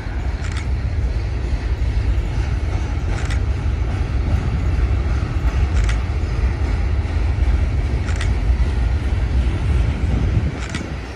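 Freight train's covered hopper cars rolling past with a steady low rumble and a light sharp click about every two and a half seconds.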